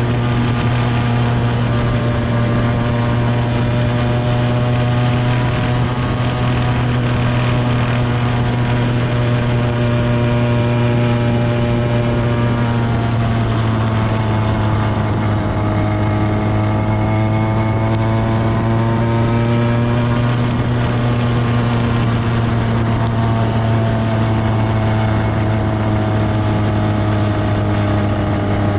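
Small two-stroke bicycle engine kit running steadily under way while the bike is ridden, its pitch dipping and rising a little about halfway through.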